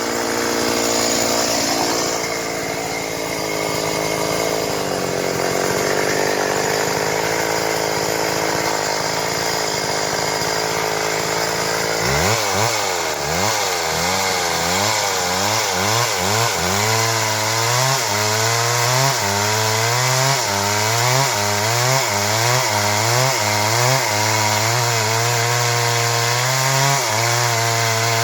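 Stihl MS 382 two-stroke chainsaw cutting through wood under load. For the first dozen seconds it runs at a steady pitch. After that the engine pitch rises and falls about once a second as the load on the chain changes.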